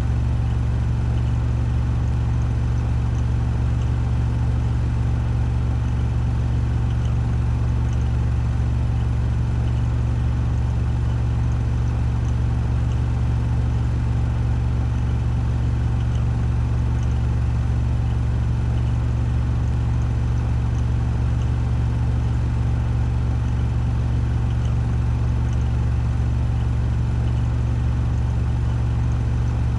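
Washing machine drum spinning at full speed on a 1400 rpm spin cycle: a steady, unchanging low hum with an even whir above it.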